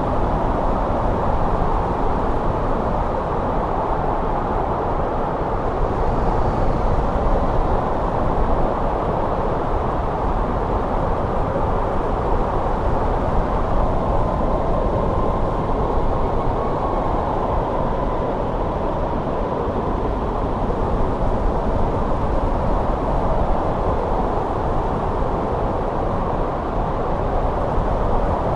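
Steady snowstorm wind: a dense, low rushing noise, with a faint whistle in the middle that slides slightly down in pitch before fading.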